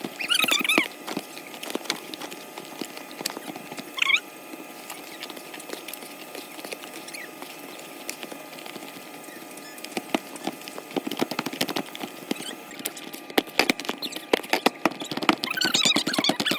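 Tortilla dough being mixed and worked by hand in a bowl: irregular tapping and patting, busier in the last few seconds, with a few brief squeaks.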